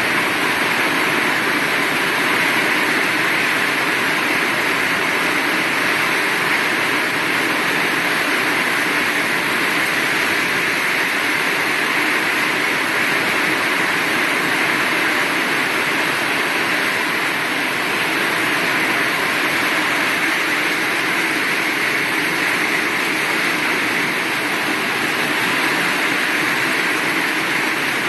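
Heavy rain falling steadily, an even hiss with no thunder or other sudden sounds.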